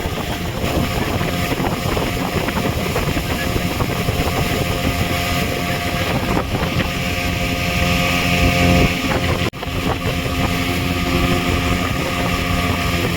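Motorboat engine running steadily under rushing water and wind buffeting the microphone. The sound cuts out for an instant about two-thirds of the way through.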